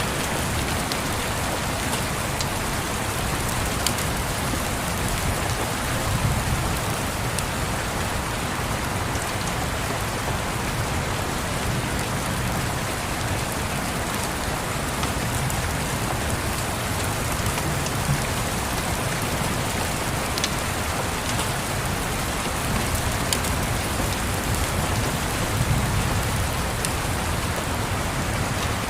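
Steady rain on a surface, with a few scattered sharp clicks of fireplace crackle and a low rumble of distant thunder swelling twice, a few seconds in and near the end.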